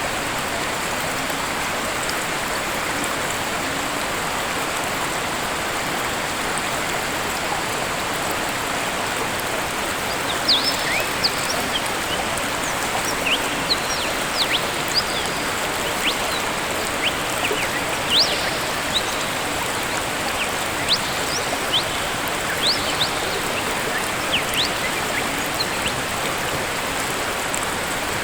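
Steady rush of a waterfall. From about a third of the way in, birds add many short, high chirps over it.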